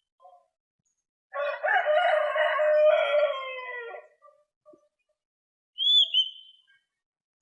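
A rooster crows once, a single call of nearly three seconds that dips at its end. A couple of seconds later comes a short, high, arched whistled note from an oriental magpie-robin.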